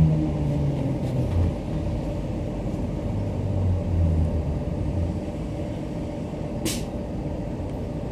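Queensland Rail electric multiple unit heard from inside the carriage, slowing into a station: a steady low rumble of wheels and running gear with a low motor tone fading in the first second or so. A brief sharp hiss sounds about two-thirds of the way through.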